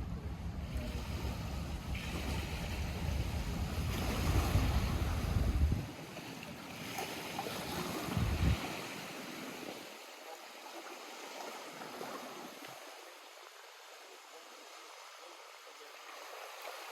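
Lake water lapping and splashing at the shore. A heavy low rumble underneath stops suddenly about six seconds in and returns briefly around eight seconds, leaving only the softer water.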